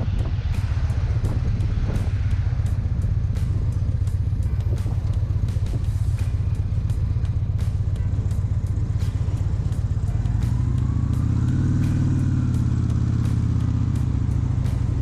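2012 Victory Cross Country's 106-cubic-inch V-twin running at road speed, heard from the bike with wind and road noise, its pitch rising and falling once about two thirds of the way through. Frequent short clicks sound over it.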